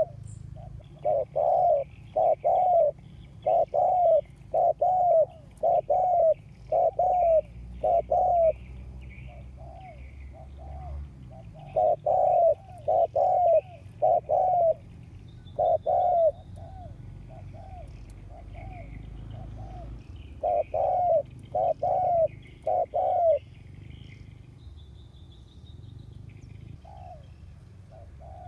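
Spotted dove cooing in repeated phrases, with three runs of loud coos and softer coos in the gaps between them: a decoy dove calling to draw in wild doves. Small birds chirp faintly in the background.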